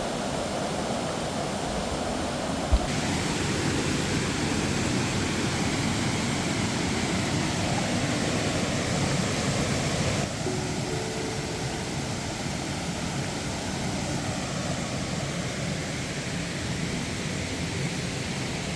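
Waterfall rushing steadily. The sound of the water shifts abruptly twice, about three and ten seconds in.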